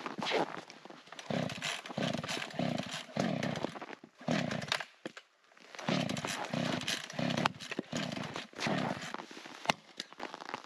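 Wood being sawn by hand: rhythmic rasping saw strokes, about two a second, with a short pause near the middle.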